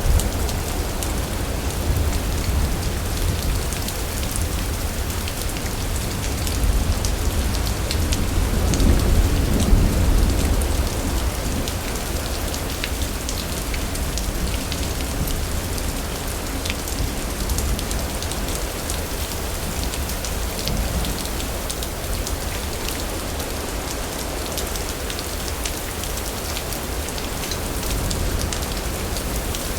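Steady rain pattering down, with a low roll of thunder that swells and peaks about a third of the way in, then eases back under the rain.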